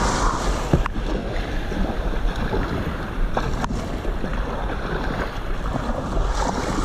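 Water noise and wind buffeting the microphone as a kayak paddles out through the surf, with a few short sharp knocks.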